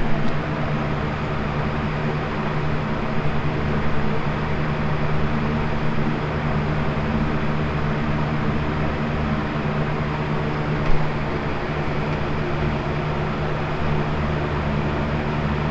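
Lasko box fan running steadily on its second speed: an even motor hum under the rush of air from the blades. One short click about two-thirds of the way through.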